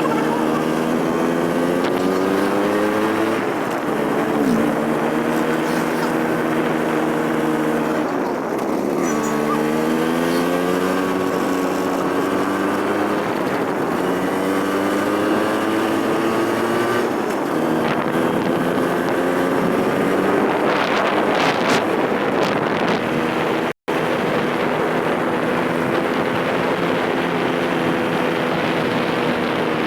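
Vespa scooter engine running under way, its pitch dipping and climbing back several times as the rider shifts gears and changes speed.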